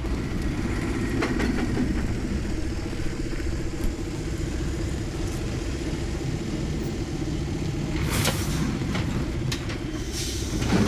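Heavy truck's diesel engine running steadily with a low rumble. Brief hissing noises come about eight seconds in and again near the end.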